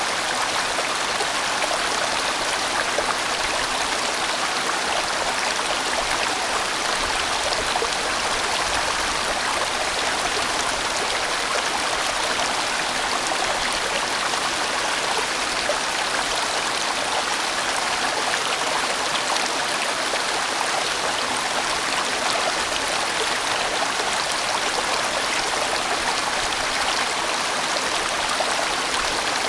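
A large mountain stream flowing and rushing over rocks in a steady, unbroken stream of water noise.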